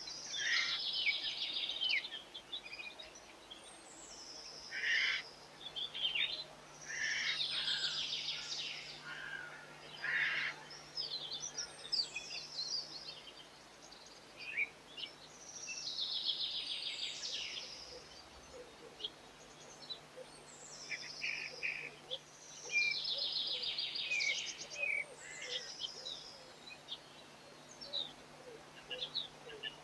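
Songbirds singing in repeated short, high phrases every few seconds, each with quick downward-gliding notes and rapid trills, over a faint steady low hum.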